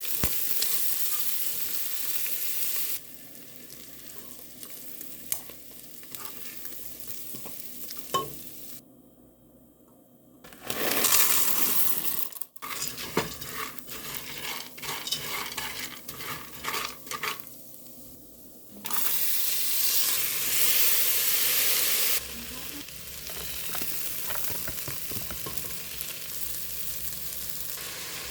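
Food sizzling and frying in a hot pan, with clicks and scrapes of a utensil stirring it. The sizzle starts and stops abruptly several times, louder in some stretches than others.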